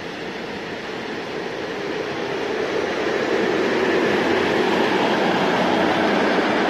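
Freight train of tank wagons running through the station, a steady noise of wheels on rails that grows louder about two seconds in and then holds.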